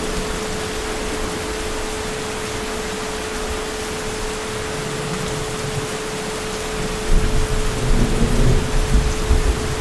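Steady heavy rain, with a low rumble of thunder rolling in about seven seconds in. A faint steady hum sits under the rain.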